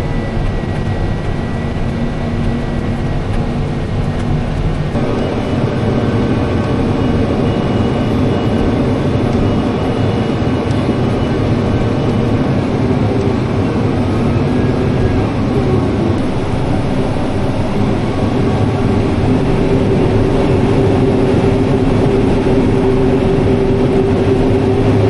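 Harvest machinery running steadily, with an engine droning under grain being unloaded into a semi trailer. About five seconds in the pattern shifts as a new set of steady tones joins.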